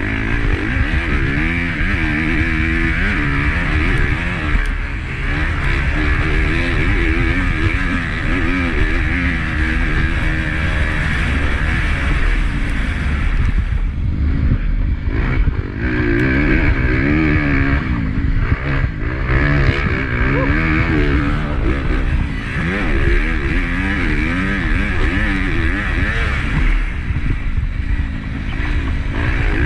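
Honda CRF250 four-stroke single-cylinder motocross engine under hard riding, its pitch rising and falling again and again as the throttle is worked and gears change, with wind rushing over the on-board camera.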